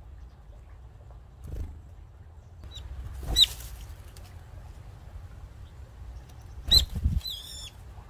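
Birds fluttering and landing at a water trough, with low wing thumps. Two loud, sharp bird calls come about three and a half seconds apart, and a short wavering call follows near the end.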